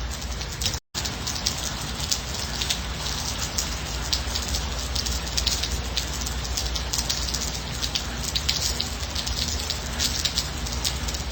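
Steady gentle rain, with many individual drops pattering on a surface over a constant hiss and low rumble. The sound cuts out for a split second about a second in.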